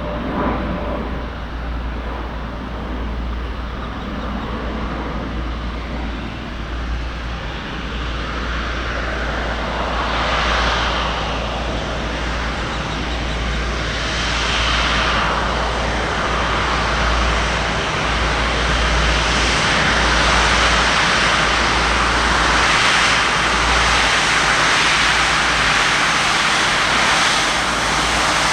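Jet airliner's engines, a broad rushing noise that grows gradually louder and is loudest in the last third.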